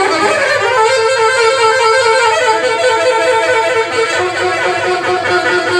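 Live band playing an instrumental passage, with a lead line of short repeated notes over the accompaniment.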